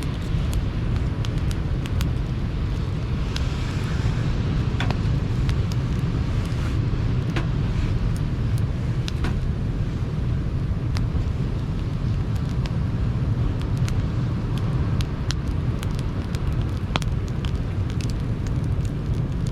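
Steady low rush of sea surf with a wood campfire crackling over it in frequent sharp pops.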